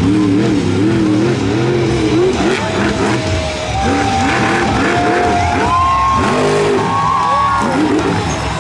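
Monster truck engine revving up and down repeatedly, with rock music playing over the arena speakers.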